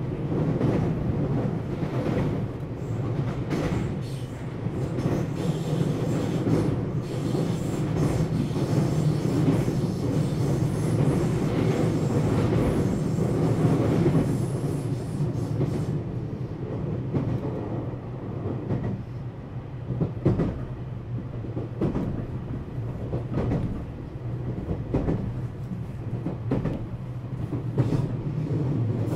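Onboard running sound of a JR West 227 series electric multiple unit, heard inside motored cab car KuMoHa 227-68: a steady rumble of wheels on rail with scattered clacks over the rail joints. About halfway through, the higher-pitched noise falls away and the clacks stand out more.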